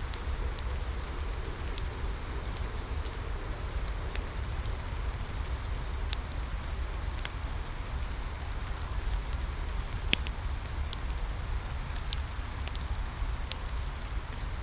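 Steady rain falling on a surface, under a low rumble, with scattered sharp crackles and pops from a wood fire, the loudest pop about ten seconds in.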